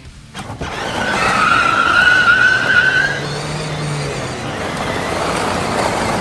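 Car tyres skidding: a loud rushing noise that starts about half a second in, with a squeal for the first couple of seconds.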